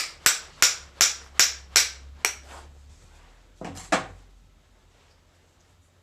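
Hammer blows on a metal part of a hydraulic spool valve being knocked apart: a quick, even run of about seven sharp strikes, a pause, then two more close together, after which it goes quiet.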